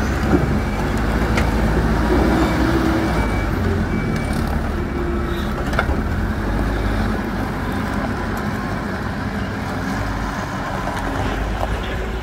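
Hidromek 102S backhoe loader's diesel engine running steadily, with a few sharp metallic knocks.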